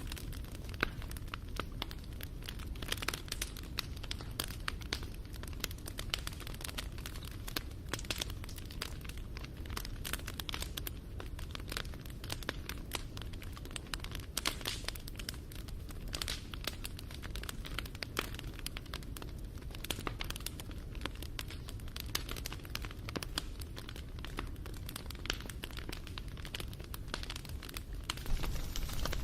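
Wood fire crackling and popping steadily, with many small sharp snaps over a low rumble of the flames.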